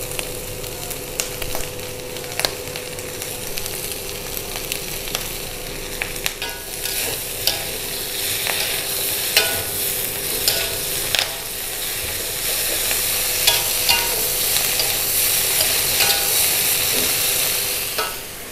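Jengkol stir-frying in a metal wok: a steady sizzle, with a metal spatula stirring and clinking against the pan, the clinks coming often from about a third of the way in. The sizzle grows louder in the last third.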